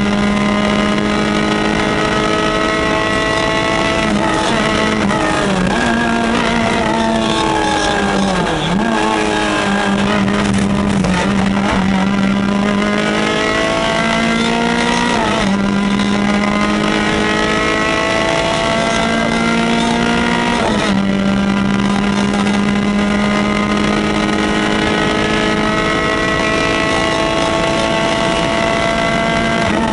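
Peugeot 205 F2012 rally car's engine at full throttle, heard from inside the cabin: its pitch climbs through each gear with a quick drop at every upshift. About eight or nine seconds in the pitch falls away and then climbs again as the car slows and picks up speed.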